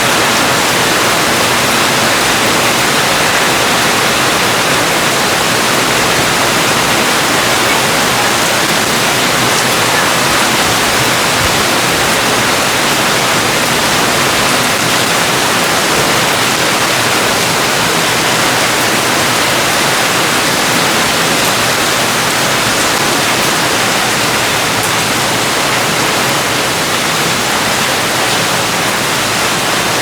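Steady heavy rain, a dense even hiss with no distinct drops or thunder.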